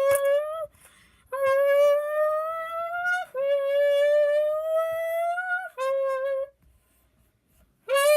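A voice hummed through a squeezed can, giving a buzzy imitation of a sports-car engine. Three long notes each climb steadily in pitch, then break off and restart lower, like a car revving up through its gears. A short note follows, and after a pause of over a second another note starts at the very end.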